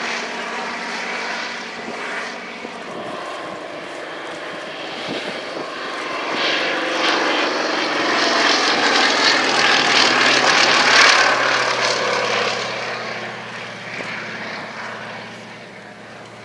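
Fairey Swordfish biplane's Bristol Pegasus nine-cylinder radial engine and propeller running just after take-off. The sound grows louder to a peak about ten seconds in, then fades away.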